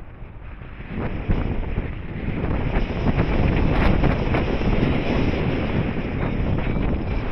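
Wind rushing over the microphone in flight, a dense rumbling buffeting that grows louder about a second in and stays strong.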